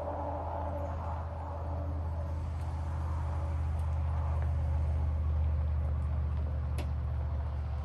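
Jeep Gladiator's engine running steadily with a low hum that grows slightly louder; a faint tick about seven seconds in.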